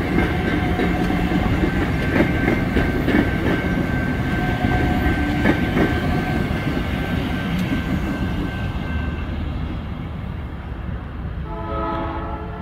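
South Shore Line electric multiple-unit commuter cars rolling past close by, the wheels clicking over rail joints with a steady high whine, then fading as the train draws away. Near the end the train sounds a short horn blast.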